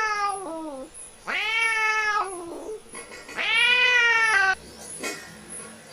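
A domestic cat meowing: three long, drawn-out meows, each a little over a second, with short pauses between.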